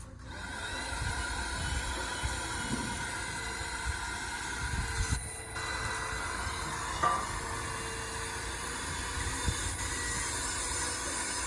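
Steady mechanical running noise with a hiss and a low rumble, broken by a few short knocks.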